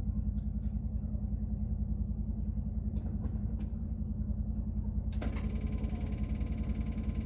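GMC 6.5 L V8 diesel engine idling cold at about −35 °C, a steady low rumble with an even, rapid pulse. About five seconds in, a brighter hiss with faint steady tones joins it.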